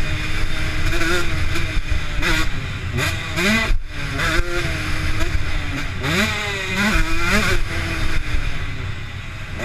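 Motocross bike engine revving hard, its pitch climbing several times as the throttle opens and levelling off between, over a steady low rumble; the sound breaks off abruptly just before the middle.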